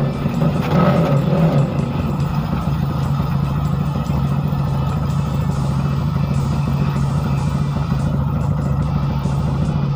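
Bored-up Honda CRF150L single-cylinder engine running at a steady speed, a little louder in the first second or two, then holding an even note.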